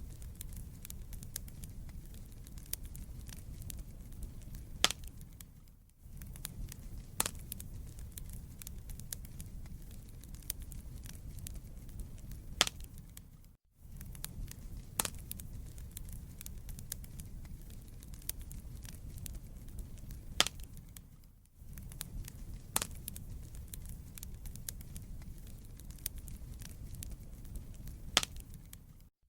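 Wood fire in a fireplace burning with a steady low rumble and scattered crackles, including several louder sharp pops. The sound briefly dips out roughly every seven or eight seconds.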